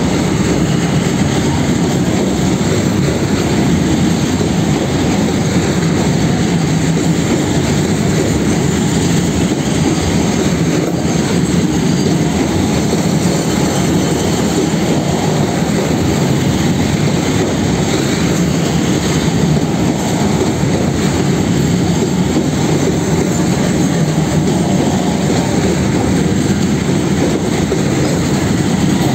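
Covered box wagons of a freight train rolling steadily past at close range: the continuous noise of steel wheels running on the rails.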